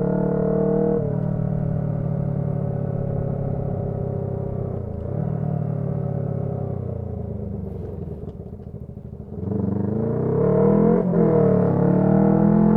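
Honda CB125T parallel-twin engine through a loud aftermarket muffler. Its note sinks slowly as the bike eases off. About nine seconds in it picks up again with a rising note, broken by a short dip like a gear change.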